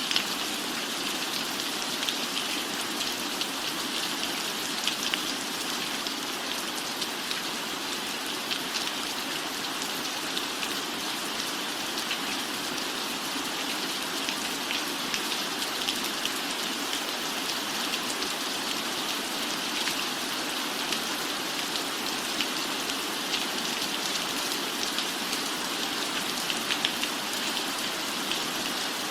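Steady, even rainfall with scattered sharper drop taps standing out here and there.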